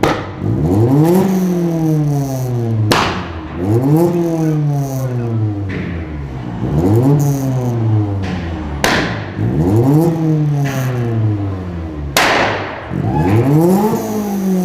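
A sports car engine revved again and again: each rev climbs quickly and sinks back more slowly, five or six times, with a sharp crack at the start of several.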